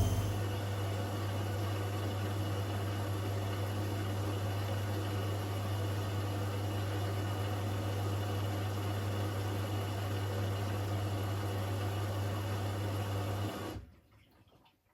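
Washing machine running with a steady low hum, which cuts off abruptly near the end.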